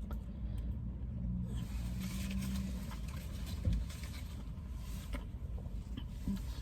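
Steady low rumble of a vehicle engine running, with a single light knock about three and a half seconds in.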